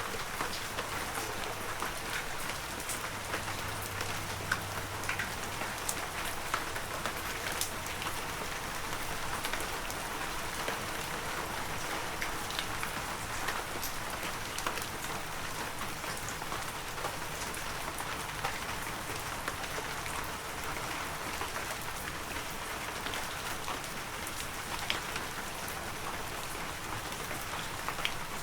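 Heavy rain falling steadily, with a dense hiss and many individual drops pattering close by.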